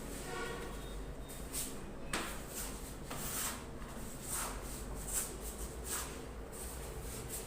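Repeated scraping strokes of a steel trowel spreading wall putty across a wall, about one stroke every half second to a second.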